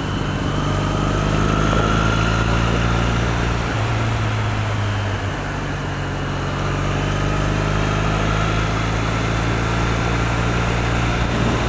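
2008 Triumph Bonneville's parallel-twin engine running at a steady cruise, its pitch drifting slightly, over a constant rush of wind noise.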